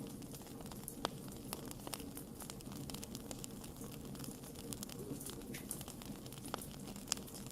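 Wood fire crackling: irregular sharp pops and snaps over a steady low rush of burning, with a louder pop about a second in and another near the end.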